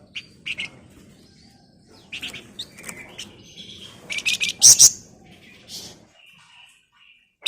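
Flamboyan songbird singing in quick bursts of sharp, high chirps and short screechy notes, loudest a little past the middle and falling away near the end.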